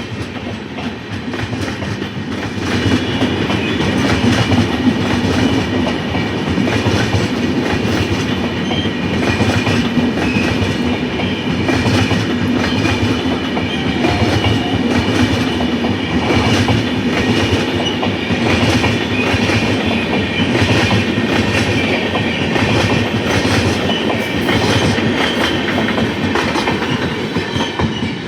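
Indian Railways train passing close by, its wheels clattering over the rail joints; the sound grows louder about three seconds in and then holds steady.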